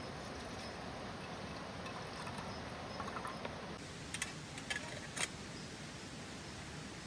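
Steady rain falling, with a few sharp clicks about two thirds of the way in.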